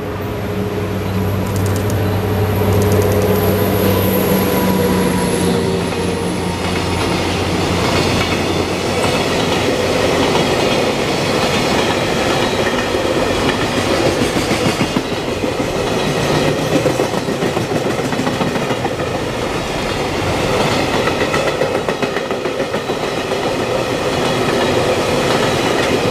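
DD200 diesel-electric locomotive passing, its engine running steadily for the first few seconds. Then a long container freight train rolls by, its wheels clattering steadily on the rails.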